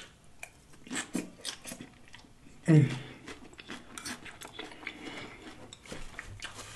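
Close-miked chewing of a mouthful of loaded nachos: many small wet clicks and crunches. About three seconds in comes a short, low vocal 'mm' that falls in pitch.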